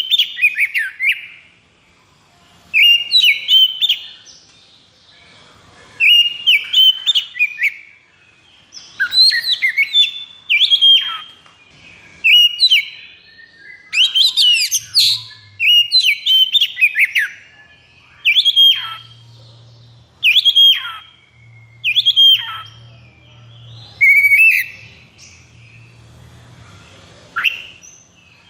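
Oriental magpie-robin (kacer) singing in short, loud bursts of whistled and sharply down-slurred notes, one burst every couple of seconds: the rapid, agitated song that keepers call 'konslet'.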